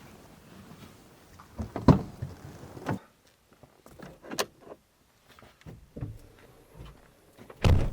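Scattered knocks and clicks of handling, with a louder thud about two seconds in and another near the end.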